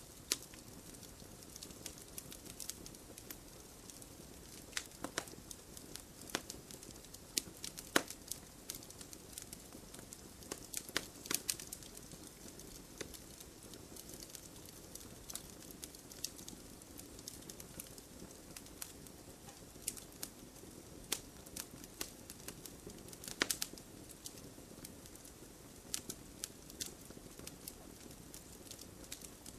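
Wood fire in a fireplace crackling and popping at an irregular pace over a steady low hiss of flames, with a few sharper, louder pops.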